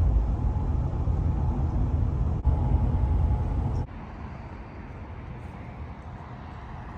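Steady low rumble of a vehicle driving, with a single click about two and a half seconds in. The rumble cuts off abruptly just under four seconds in, leaving a quieter steady hum.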